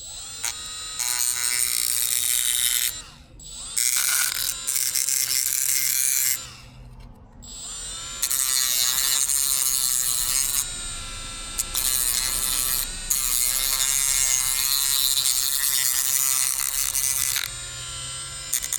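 Small high-speed handheld rotary tool grinding excess glue off a plastic tail-light housing. It runs in about five spells of a few seconds each, with short stops between, and its whine sags and wavers as it is pressed into the work.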